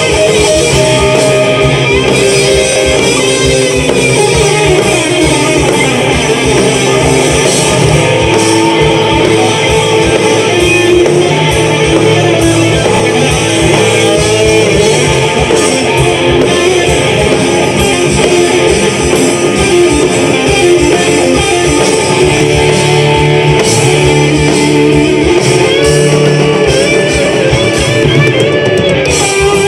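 Live rock band playing: electric guitars over bass guitar and drums, loud and steady throughout.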